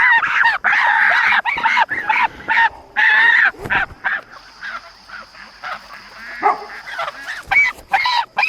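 Geese honking over and over in quick succession, loud for the first three or four seconds, softer and sparser in the middle, then loud again near the end.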